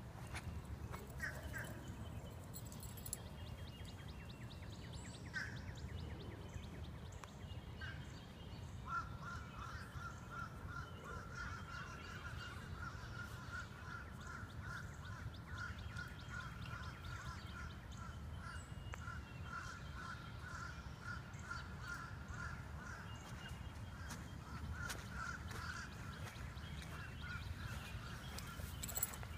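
Outdoor ambience: a low steady rumble with a few short bird chirps, then from about nine seconds in a bird's rapid, even trill that keeps going for most of the rest.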